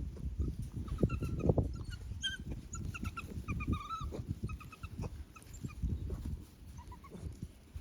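Eight-week-old North American Mastiff puppies giving short high whimpers and squeaks, over scuffling and dull thumps as they move about.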